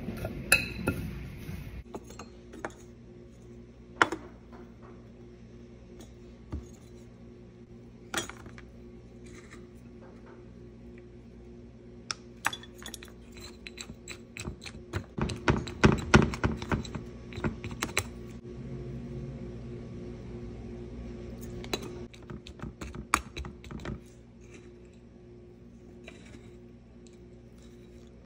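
A spoon scraping and clinking against a glass mixing bowl as granola mix is stirred, then a metal measuring cup tapping and pressing loose granola into a metal canning-jar ring on a silicone baking mat. The clinks and scrapes are scattered and busiest around the middle, over a steady low hum.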